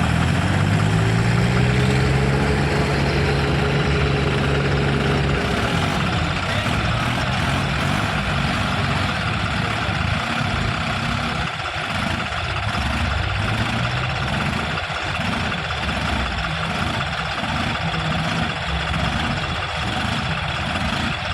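Two tractors' diesel engines running hard under load in a tractor tug-of-war: the engine note rises over the first couple of seconds, holds high, and drops back about five seconds in. Later an uneven throbbing pulse runs under the engines, and the engine pitch climbs again near the end.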